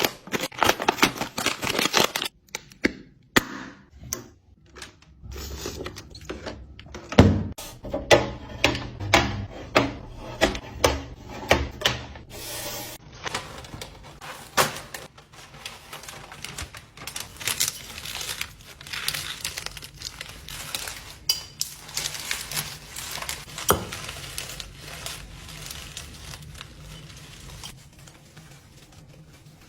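Close-up handling noise from kitchen refilling and restocking: a string of sharp clicks and taps with rubbing and crinkling between them, including a quick run of evenly spaced taps about a third of the way in, then softer rubbing near the end.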